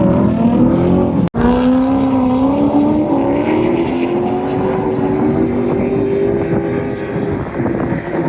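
Drift car engine held at high revs, its pitch wavering up and down. Sound cuts out for an instant about a second in, then the engine note climbs slowly and holds.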